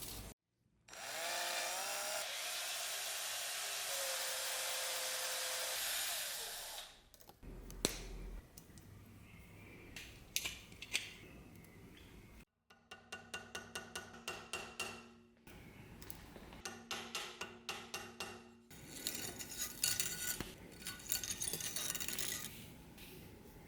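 Workshop tool sounds in separate clips. A small power tool runs steadily for about six seconds, rising in pitch as it starts. Then comes a quick run of rhythmic hand strokes, about four a second, and finally an irregular scraping.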